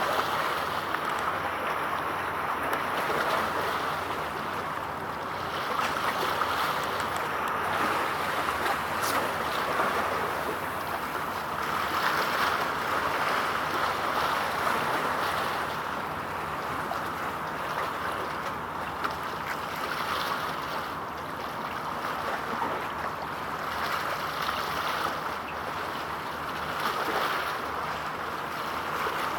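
Steady rush of wind and water by the sea, swelling and easing every few seconds.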